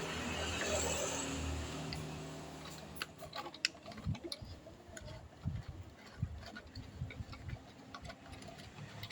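A vehicle engine running, fading away over the first two seconds. It is followed by irregular light clicks and knocks at uneven intervals.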